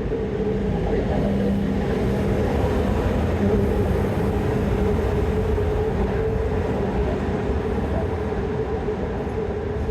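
Train at the station: a steady, loud rumble with an even droning hum that holds throughout, with no clear wheel clicks.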